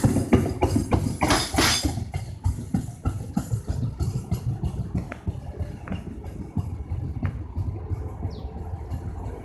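Train moving along the rails, its wheels clacking over the rail joints in a repeating rhythm over a low rumble, fading as it moves away.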